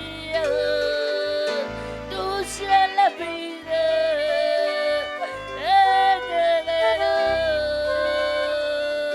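Christian praise song: a woman's voice singing long held notes that slide between pitches, over a band with a steady bass line.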